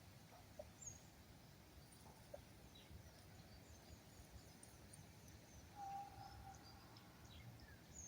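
Faint forest birdsong: scattered short, high chirps from small birds, with one longer, steady, lower call about six seconds in.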